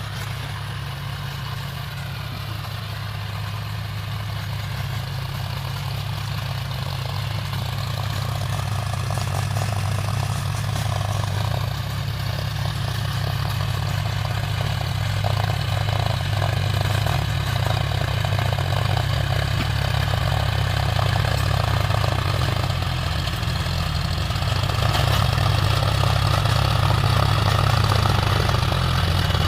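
John Deere 5050 D tractor's three-cylinder diesel engine running steadily, growing gradually louder.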